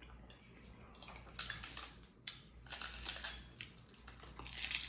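Crisp fried tostada shell crunching as it is bitten and chewed, in irregular crackly bursts that pick up from about a second in.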